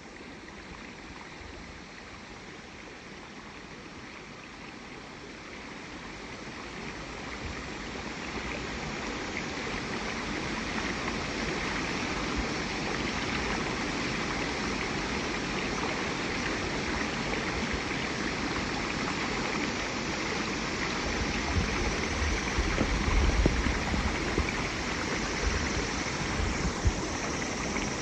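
Flowing stream water, a steady rushing that grows louder over the first ten seconds, with a few low bumps later on.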